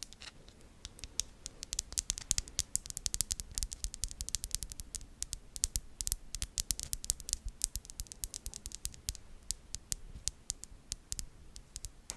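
Close-miked ASMR mouth sounds: a rapid, irregular run of small clicks and pops.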